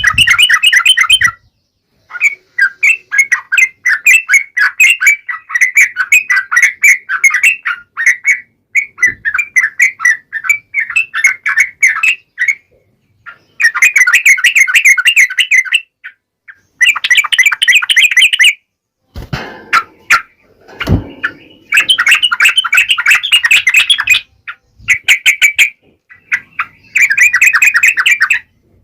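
Yellow-vented bulbul (trucukan) singing: phrases of rapid, bubbling chattering notes, each a second or a few long, repeated with short pauses. A brief low noise comes about two-thirds of the way through.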